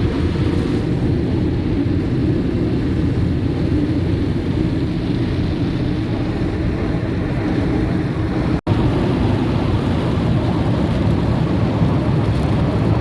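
Automatic car wash gantry washing the car, heard from inside the cabin: a loud, steady rumble that sounds like thunder. It breaks off for an instant about eight and a half seconds in.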